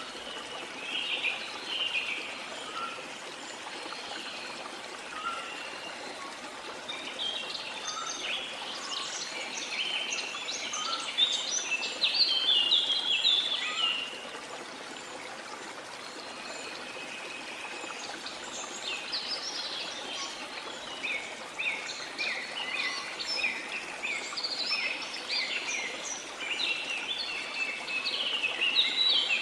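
Small songbirds chirping and twittering in busy bouts, over a steady wash of sea water.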